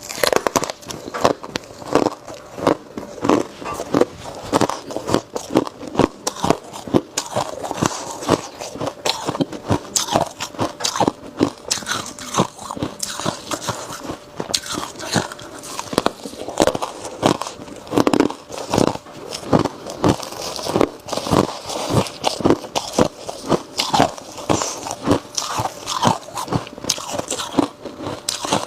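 Ice being bitten and chewed: a continuous run of sharp crunches, several a second.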